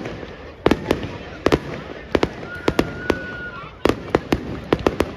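Fireworks display: a rapid, irregular run of sharp bangs and cracks, several a second. A high whistle holds steady near the middle, then drops away.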